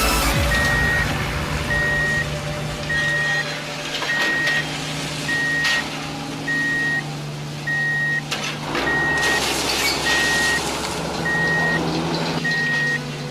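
Toy construction truck's electronic reversing beeper: a steady series of evenly spaced beeps at one pitch, about one every 1.2 seconds, over a low hum, with a few short knocks.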